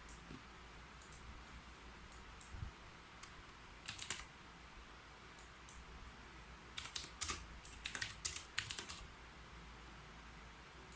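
Typing on a keyboard: a few scattered keystrokes, a short cluster about four seconds in, then a faster run of keystrokes lasting about two seconds past the middle.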